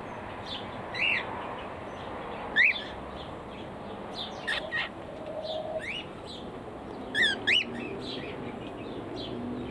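Aviary birds calling: a handful of short, clear chirps that rise and fall in pitch, spaced a second or more apart, with fainter twittering between.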